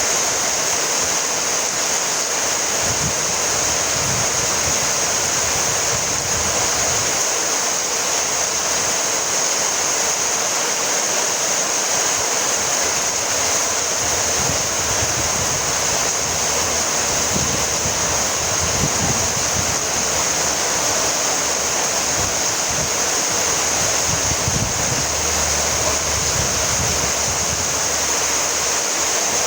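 Steady rainfall: an even, unbroken hiss, with a soft low rumble swelling and fading now and then.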